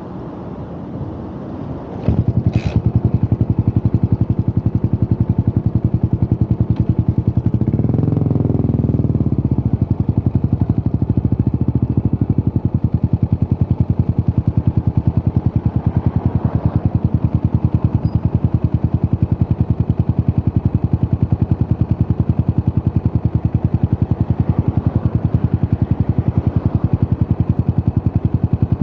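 Yamaha SR400 Final Edition's single-cylinder engine with a Peyton Place Conti muffler starting up: it fires about two seconds in after some mechanical clatter, revs briefly about eight seconds in, then settles into a steady, loud, pulsing idle.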